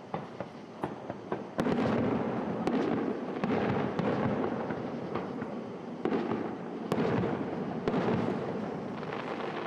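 Aerial fireworks going off: scattered sharp crackling pops, then from about a second and a half in a continuous rumble of overlapping bursts with crackle over it, and several louder bangs standing out.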